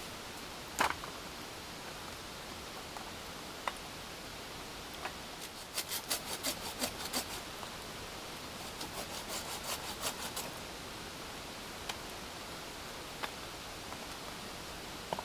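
Steady hiss of rain, with a knock about a second in and two runs of quick rubbing and scraping strokes, like something being handled close by.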